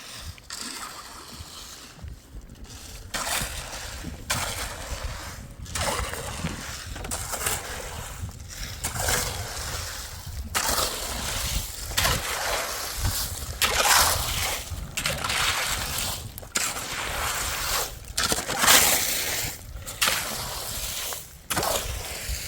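Water splashing and sloshing in irregular surges, about one every second or so.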